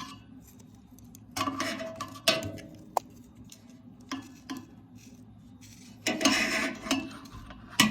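Metal clinking, knocking and scraping as a caliper is worked into a furnace's sheet-metal blower housing to reach the blower motor's shaft. The sounds come in short, scattered bursts, with a sharp click about three seconds in and a longer scraping rattle near the end.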